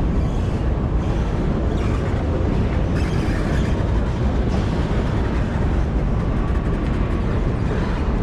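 Steady rumble and running noise of a passenger train in motion, heard from inside the carriage.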